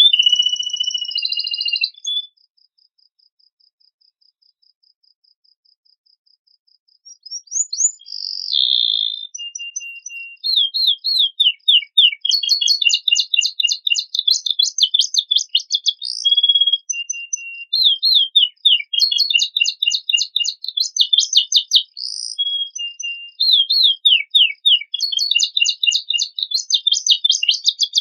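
Domestic canary singing a varied song of rapid trills and chirping phrases. It breaks off about two seconds in, falls silent for several seconds, then resumes with dense, repeated trills.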